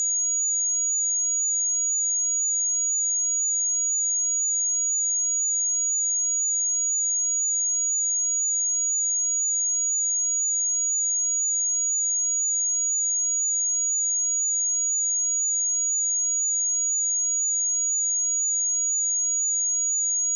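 A pure 6751 Hz sine-wave test tone: a single steady, high-pitched whistle that holds one pitch at an even level throughout.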